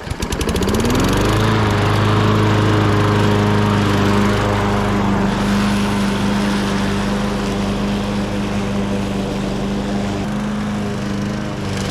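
John Deere JS36 walk-behind lawn mower engine just started, climbing to speed over the first second or so, then running steadily with its engine speed turned up, on a test run after the carburettor was cleaned.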